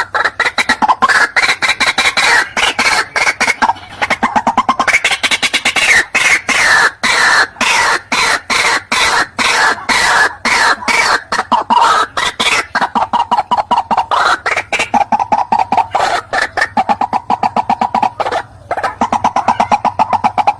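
White-breasted waterhen (teruwok) calling: a fast, unbroken run of repeated notes, many a second, whose pitch moves up and down over the stretch.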